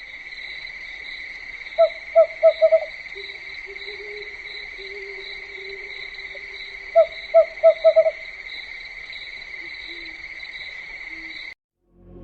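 An owl hooting in two runs of about five quick hoots each, one about two seconds in and one about seven seconds in, over a steady high-pitched drone that stops shortly before the end.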